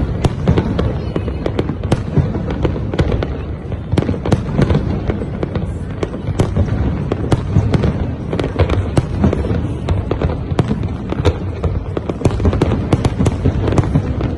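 Aerial fireworks display: a continuous barrage of deep booms overlaid with many sharp cracking bangs, several a second.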